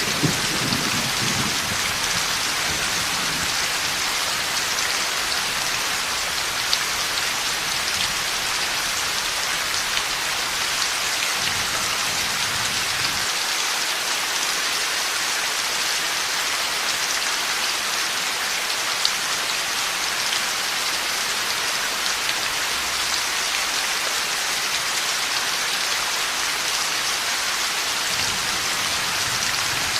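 Heavy rain falling steadily, an even hiss of drops on a surface. The low rumble of a thunderclap dies away in the first couple of seconds, and faint low rumbles return midway and near the end.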